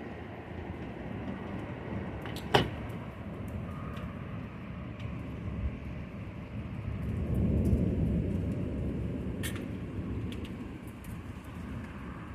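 Distant thunder rumbling low, swelling and fading over a few seconds past the middle, with a sharp click a few seconds in and another near the end.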